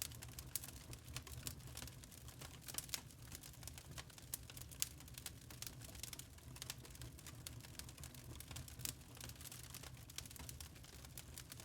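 Log fire crackling: wood burning with frequent irregular snaps and pops over a low steady rumble.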